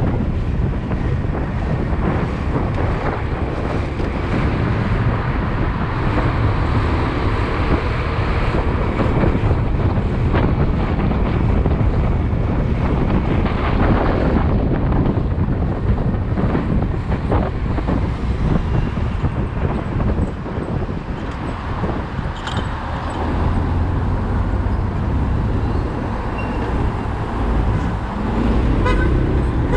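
Wind buffeting the microphone over the road noise of a motorcycle riding through city traffic. Near the end a rising engine note is heard, and a vehicle horn starts to sound.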